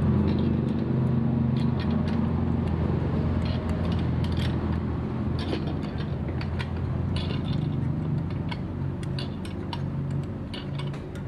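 Metal tools and outboard-motor parts clicking and clinking, with some ratcheting, as the Parsun outboard is taken apart, over a steady low hum.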